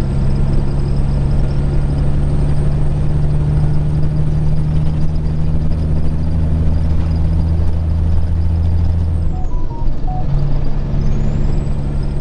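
Peterbilt 379 semi truck's diesel engine pulling steadily on the road, with a thin high whine above it. About nine and a half seconds in, the engine note and the whine drop away for about a second, then both come back.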